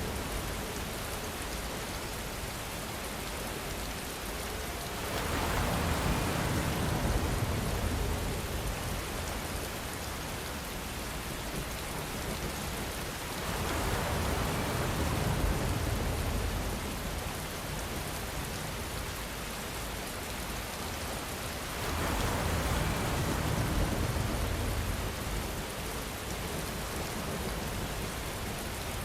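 Steady rainfall, a dense even hiss of drops. About every eight seconds it swells heavier and fuller for a few seconds, then settles back, three times over.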